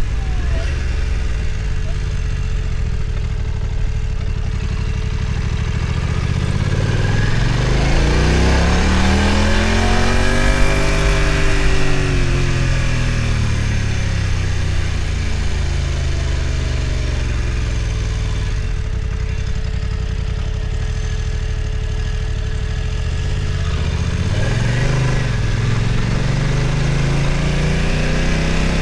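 BMW F900 XR's parallel-twin engine running under way, the revs rising for several seconds about a quarter of the way in, easing back down, then climbing again near the end, over steady wind and road noise.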